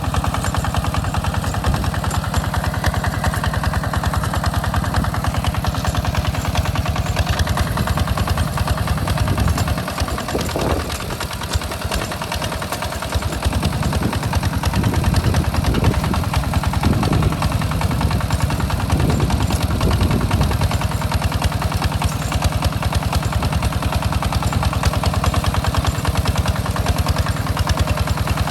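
Hinota two-wheel hand tractor engine running with a fast, even chugging while plowing a rice field. About ten seconds in it drops in level for a few seconds, then comes back with several short surges.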